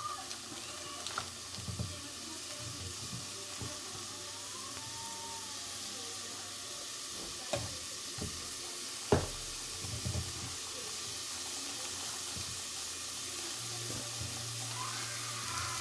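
Onions and ginger frying in lard in a pan, with a steady sizzle. A few sharp knocks of kitchen utensils come through it, the loudest about nine seconds in.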